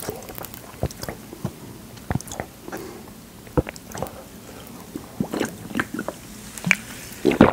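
Close-miked mouth sounds of chewing soft fruit yanggaeng jelly, with scattered wet clicks and smacks. In the last couple of seconds he gulps from a plastic bottle of sparkling water.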